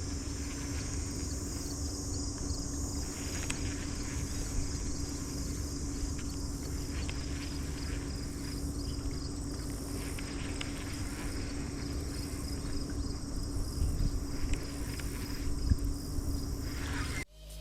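Insects chirping steadily over the low, even hum of a small boat motor moving the jon boat across the river; the sound cuts off abruptly just before the end.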